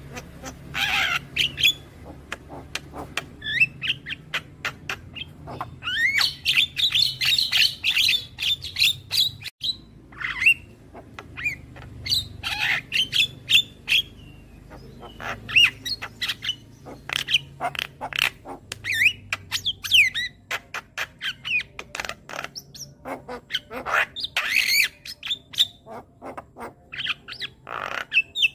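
Javan myna (jalak kebo) calling in a rapid string of harsh squawks, chirps and short whistled glides, with a dense run of notes about a quarter of the way in.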